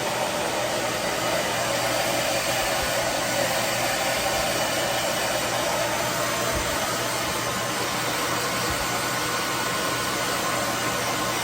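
Handheld hair dryer running steadily, an even rush of blown air with no change in pitch or level.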